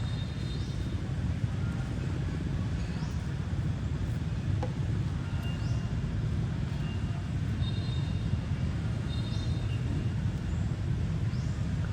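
Steady low outdoor rumble, with faint high rising chirps every second or two.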